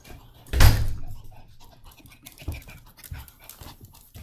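A pet dog panting, with one loud thump about half a second in.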